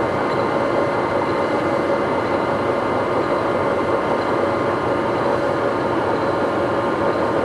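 Poreba TPK90A1/3M heavy-duty engine lathe running steadily under power, with the carriage on longitudinal power feed: an even machine hum with several held tones from the drive.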